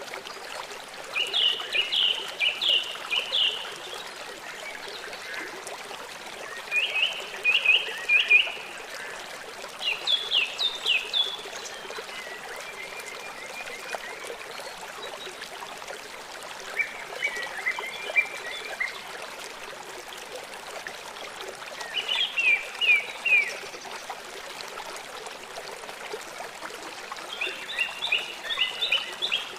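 A songbird sings short phrases of rapid, sharp notes that slide downward, about seven phrases a few seconds apart. Behind it runs a steady hiss of flowing water.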